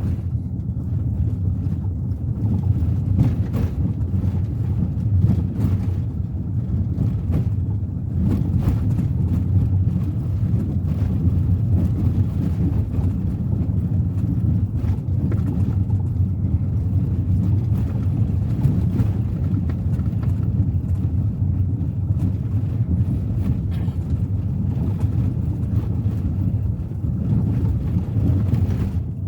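Steady low rumble of a Suzuki Ertiga 1.4 under way at highway speed: engine running with tyre and road noise.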